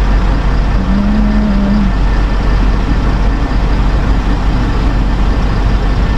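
Car engine idling, heard from inside the cabin: a steady low rumble with an even hiss over it. A short held low note, like a hum, sounds about a second in.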